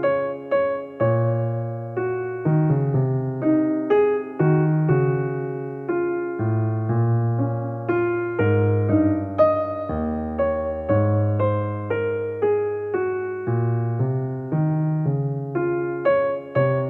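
Soft background music: electric piano playing a slow melody over sustained bass notes, each note struck and then fading.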